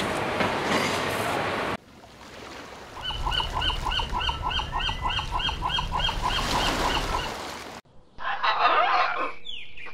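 Steady rush of aerated water in a prawn tank that cuts off after about two seconds. Then a gull's call: a run of about a dozen evenly spaced yelping notes, about three a second. Near the end, a blue-and-yellow macaw gives loud, harsh squawks.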